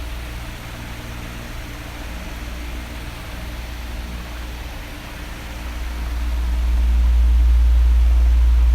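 Electric fan running: a steady airy hiss over a low rumble, the rumble swelling louder from about six seconds in.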